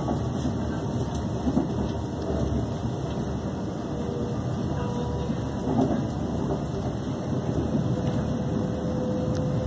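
Class 350 Desiro electric multiple unit running at speed, heard from inside the carriage: a steady rumble of wheels on rail with occasional short clicks and a faint steady tone above it.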